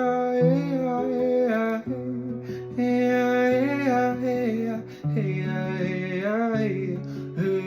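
Music: a voice singing a wordless, gliding melody over sustained acoustic guitar chords, between verses of a devotional chant.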